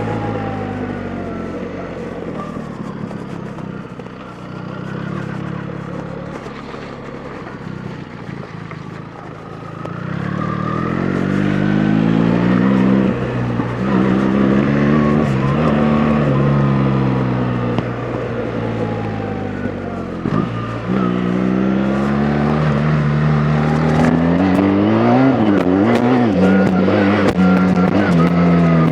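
BMW R 1300 GS Adventure's boxer-twin engine under way: steady at low revs for about the first ten seconds, then revving up and dropping back again and again, louder through the second half.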